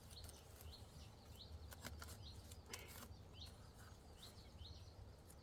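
Faint, short rising bird chirps repeated about twice a second over a low hum, with a few soft clicks.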